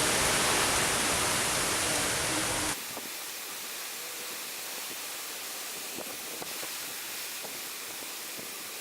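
Hurricane Irma's wind and rain: a steady, loud rushing noise that drops abruptly to a quieter, even hiss with faint scattered ticks a little under three seconds in.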